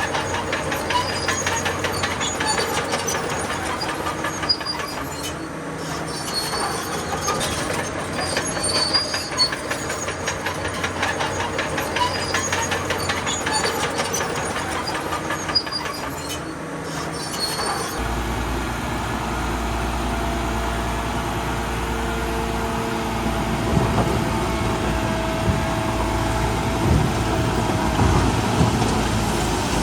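Crawler bulldozer at work, its steel tracks clanking and squealing in a fast rattling rhythm over the engine. About 18 seconds in the sound changes abruptly to a steadier, deeper engine drone with less clatter.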